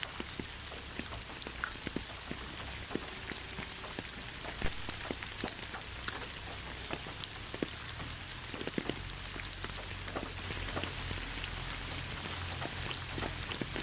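Steady rain falling, an even hiss with many separate drops ticking sharply onto a surface at irregular moments.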